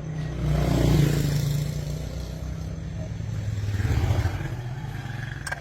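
An engine running, revving up about a second in and again around four seconds in.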